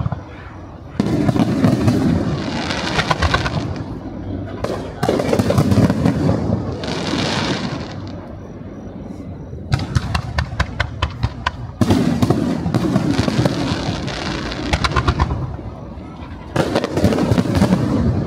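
Aerial firework shells bursting. Several sudden booms each trail off into a crackling fizz, and about ten seconds in comes a quick string of sharp pops.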